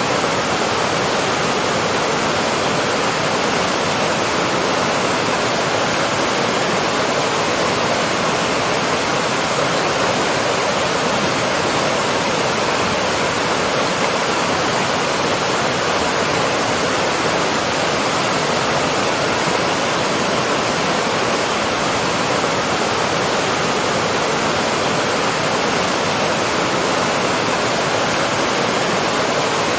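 Waterfall: water falling and rushing in a steady, even roar of noise, with no changes.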